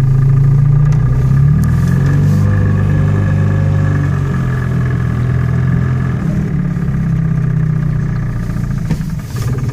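Engine of a Microcar M.GO Highland X microcar running as the car pulls away and drives slowly through a tight turn, heard from inside the cabin. It is a steady drone whose pitch shifts a little in the first few seconds and eases slightly after about six seconds.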